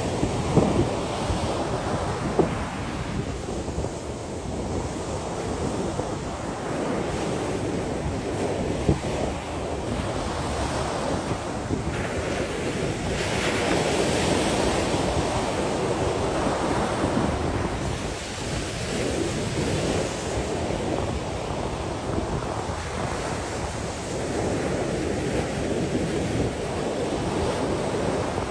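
Sea waves washing in and out, swelling and easing every few seconds, with wind buffeting the microphone.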